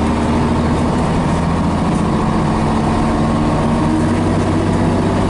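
Scania BR111H bus's diesel engine running steadily at low revs.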